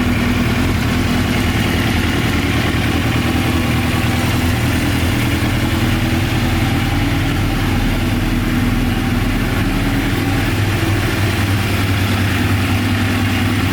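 Suzuki GSX-R600's inline-four engine idling steadily.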